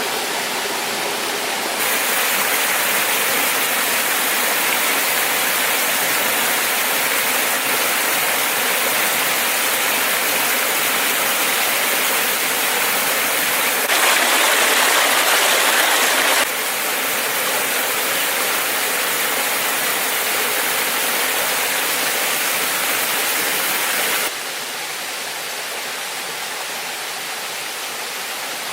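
Steady rushing of a waterfall, a dense even hiss of falling water with no other sound over it. Its loudness jumps abruptly a few times: up about two seconds in, a louder stretch a little past the middle, and down again near the end.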